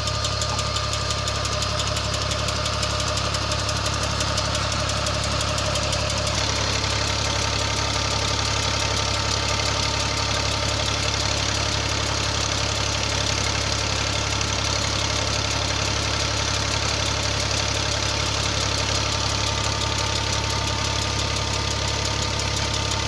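New Holland Ghazi tractor's diesel engine running steadily under load, turning the shaft that drives a tubewell pump.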